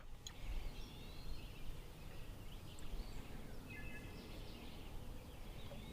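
Faint outdoor ambience with a few thin, distant bird calls scattered through it.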